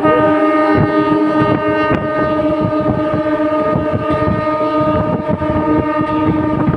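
Indian suburban electric local train's horn held in one long, steady blast, over the rattle and clatter of the wheels on the track.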